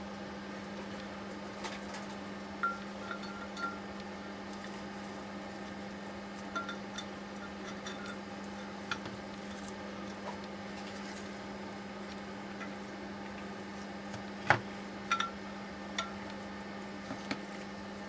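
Metal parts and tools clinking and tapping now and then as they are handled, the sharpest knock about two-thirds of the way in, over a steady low hum.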